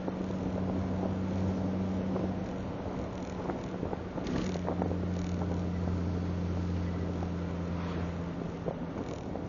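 Triumph TR sports car's engine running at a steady cruise, heard from inside the car over road and wind noise, with scattered knocks. The engine note drops a little about four seconds in and again shortly before the end as the car slows.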